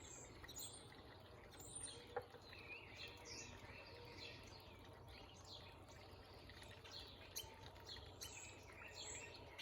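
Faint chorus of small backyard birds chirping, many short overlapping notes throughout.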